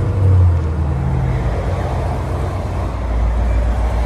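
A car engine running at low revs close by: a steady low rumble, a little louder for the first half second.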